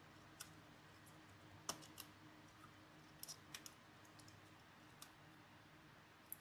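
Scattered light clicks and taps of small hard parts or tools being handled, about eight in all at irregular spacing, the sharpest a little under two seconds in, over a faint steady hum.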